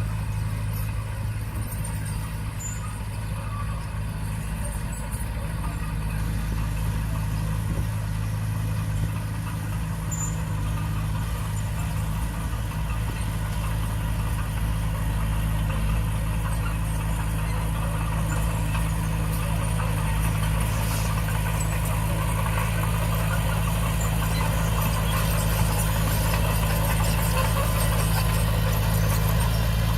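Diesel engine of a small Komatsu D20P bulldozer running steadily, slowly growing louder.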